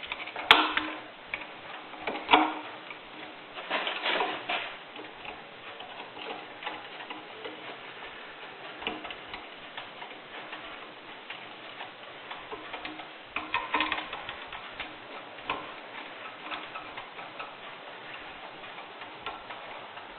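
Small metallic clicks and ticks with a few louder knocks, from the cover plate being fitted and screwed onto a steel switch box.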